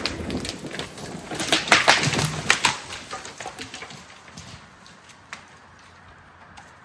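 Wood cracking and branches snapping in a dense burst of sharp cracks for about three seconds, then dying away.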